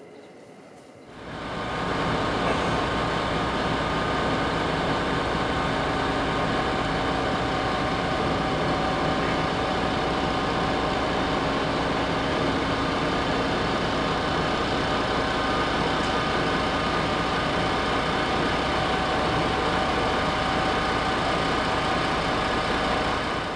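Diesel train running steadily, with an even engine drone holding several fixed tones; it fades in about a second in and fades out near the end.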